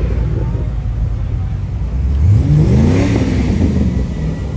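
A car engine running, with one rev that rises and falls starting about two seconds in.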